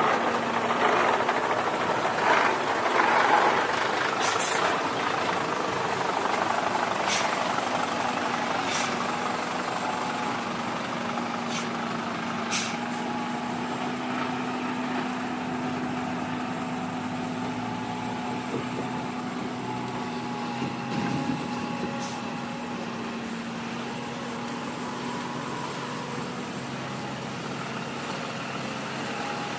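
Diesel earthmoving machinery running steadily, louder and rougher for the first few seconds, with several sharp knocks scattered through.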